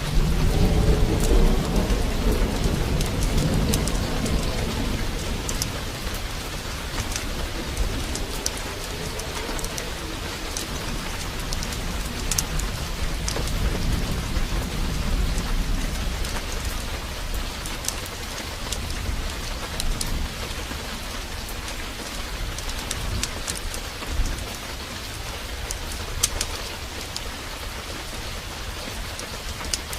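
Heavy downpour hissing steadily, with thunder: a loud low rumble rolls in at the start and dies away over several seconds, and a second, softer roll swells around the middle. Scattered sharp ticks sound over the rain.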